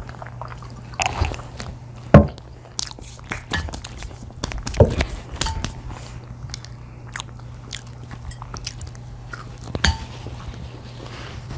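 Close-miked eating of pizza: bites and chewing with scattered crisp crunches and wet mouth clicks, a few louder crunches standing out, over a steady low hum.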